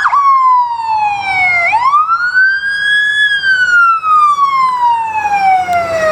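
Emergency vehicle siren wailing loudly. The pitch falls, sweeps back up to a peak about three seconds in, then slides slowly down again.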